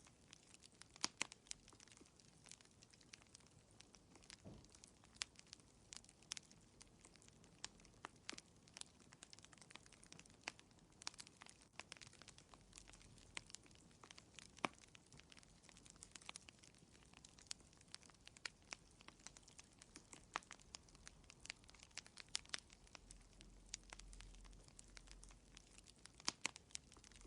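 Fireplace fire crackling quietly, with irregular sharp pops and snaps over a faint low hiss.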